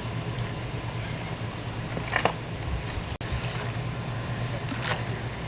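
Vehicle engine idling with a steady low hum, with a few short clicks and clatters, the clearest about two seconds in and another near the end.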